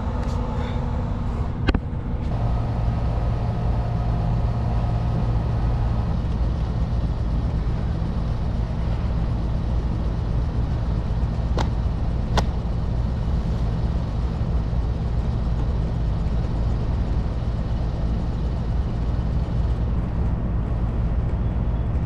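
Steady low mechanical hum of rooftop HVAC equipment running, with an added whine from about two to six seconds in. A few sharp clicks, once near the start and twice about halfway through, come from handling the unit's panels.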